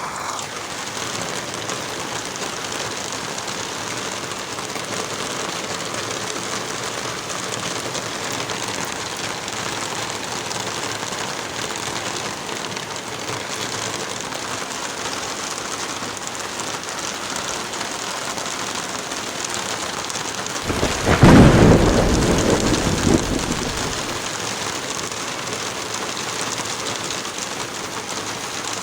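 Heavy rain falling steadily, with one loud rumble of thunder about two-thirds of the way through that lasts roughly three seconds and fades back into the rain.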